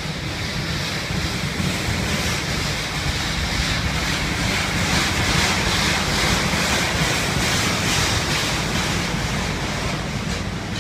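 CP Rail freight train rolling past, its wheels on the rails making a steady rushing noise that grows louder about halfway through and eases off near the end.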